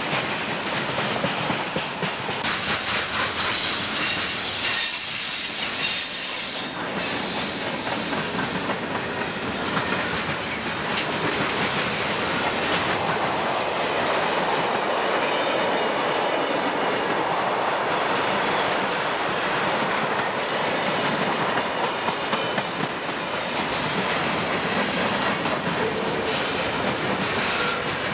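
Freight cars of a CSX train rolling past close by: steady wheel-on-rail rumble with clickety-clack over the rail joints. High-pitched wheel squeal rides over it from about three to eight seconds in.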